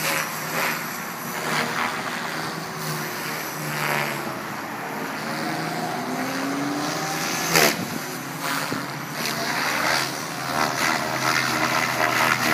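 Logo 500 electric R/C helicopter in flight: rotor blades whooshing and motor whining, the pitch gliding up and down as it manoeuvres. A brief loud burst about seven and a half seconds in.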